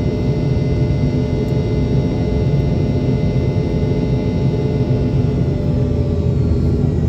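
Cabin noise of a Boeing 717 in flight: its rear-mounted Rolls-Royce BR715 turbofans running steadily, heard from inside the cabin as a deep rumble with several steady humming tones over it.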